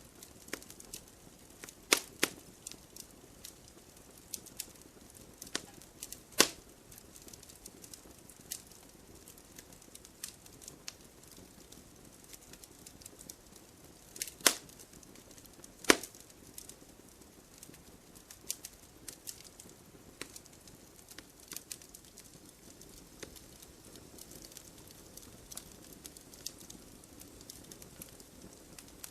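Campfire crackling: a soft hiss with irregular small snaps throughout and a handful of much louder sharp pops from the burning wood.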